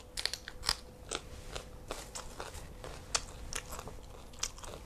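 Close-up chewing of crisp raw vegetables, with irregular sharp crunches about three times a second.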